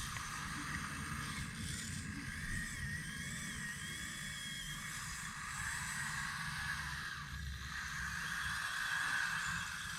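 Electric hydraulic pump and motors of a scale RC excavator running, a steady whine that wavers in pitch over a rough low hum as the machine works.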